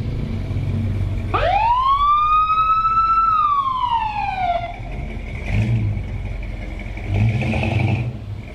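Car engine rumbling with a high whine that climbs steeply about a second in, holds briefly, then slides back down and fades; two short low surges of the engine follow.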